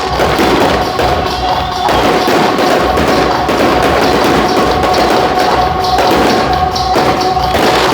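Loud music over the thuds of a fireworks display.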